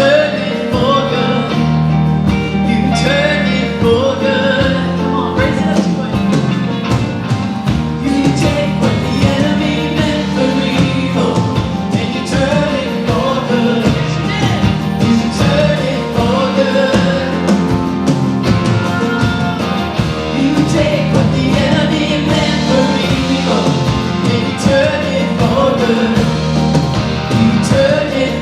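Live church worship band playing a rock-style song with a singer carrying the melody over guitars and a full band.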